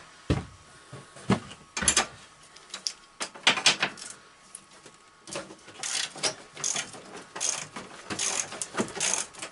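Irregular clicks, knocks and scrapes of metal and plastic parts being handled and pulled loose while the wiring and dash come off a garden tractor. A faint steady whine from a battery charger sits underneath.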